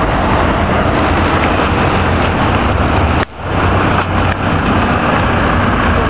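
A sports car's V8 engine running amid street noise, a loud low rumble. It drops out abruptly for a moment about three seconds in, then comes back.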